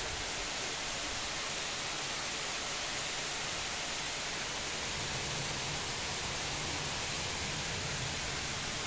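Heavy thunderstorm downpour: a steady, even hiss of pouring rain, with a slightly deeper rumble underneath from about halfway through.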